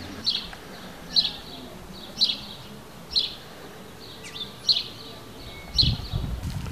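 A bird repeating a short, high call about once a second, six times. A low rumble comes in near the end.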